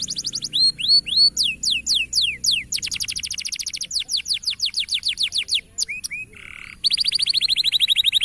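Canary singing: rapid trills of repeated downward-sweeping notes, changing to a new trill every second or so, with a short buzzy note about six seconds in followed by a fast, even rolling trill.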